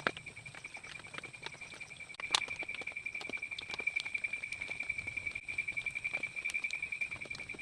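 A night insect, cricket-like, trilling: one steady, rapidly pulsing high note, which grows louder a little over two seconds in. Scattered short clicks and ticks sound alongside it.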